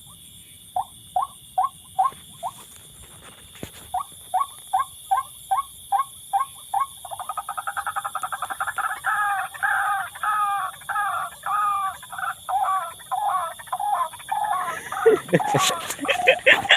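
Bird calls: short, repeated whistled notes at about three a second, breaking into a faster run of wavering, rising-and-falling notes about halfway through.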